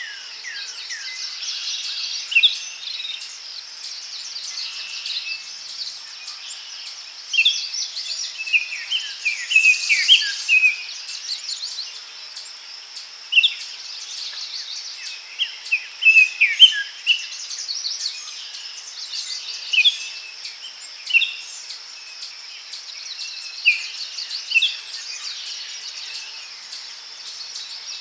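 Daytime forest ambience: several birds calling and singing in short chirps and trills, over a steady high insect buzz with a regular ticking.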